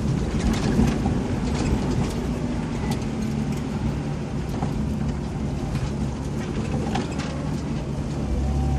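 Vehicle engine running steadily under load as it climbs a rough dirt track, heard from inside the cab. Scattered knocks and rattles come through as the vehicle jolts over the ruts.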